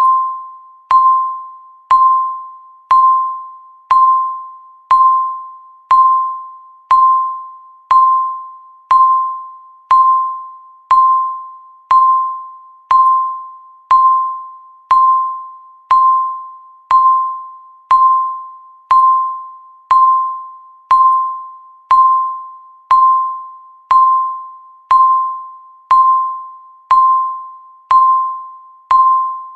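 Electronic countdown-timer beep, a single bell-like tone struck once every second and fading quickly after each strike, marking each second that passes.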